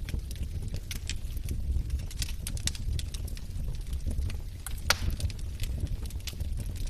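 Wood fire burning in a fireplace: a steady low rumble of flames with irregular sharp crackles and pops from the logs, one louder pop about five seconds in.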